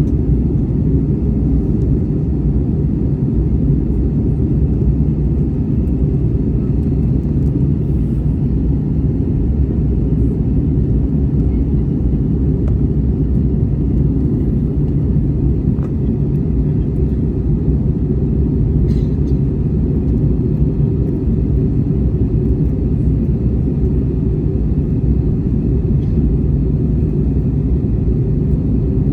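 Airliner cabin noise: a steady low rumble of the engines and airflow.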